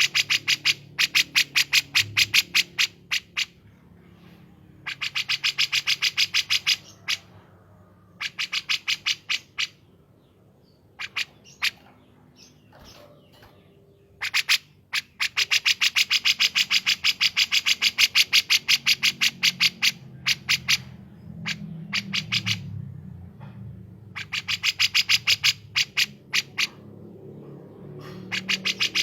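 Recorded bulbul song, kapas tembak and cucak jenggot: rapid trills of sharp repeated notes in bursts of one to five seconds, broken by short pauses, with the longest run about half way through.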